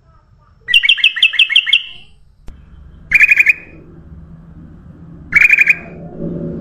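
Kutilang emas, a bulbul, calling: a quick run of about seven chirps about a second in, then two shorter chirp phrases a couple of seconds apart, over a low rumble that swells near the end.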